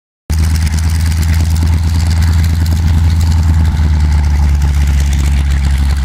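Piston aircraft engine idling steadily, a low even drone that cuts in abruptly just after the start.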